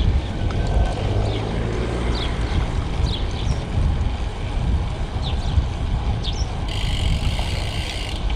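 Wind rushing over the microphone with low road rumble while riding a road bike, a few short high chirps in the middle and a steadier high hiss coming in near the end.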